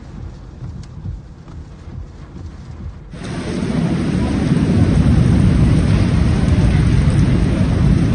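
Storm recorded on a phone: a low, gusty rumble for about three seconds, then a sudden cut to loud, steady heavy rain with wind.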